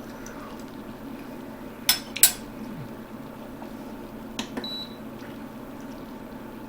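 Metal spoon clinking against a cooking pot: two sharp clinks about two seconds in, then a lighter clink with a brief ring a couple of seconds later. A steady low hum runs underneath.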